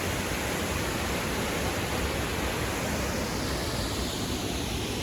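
Triberg waterfalls: a steady, even rush of falling water.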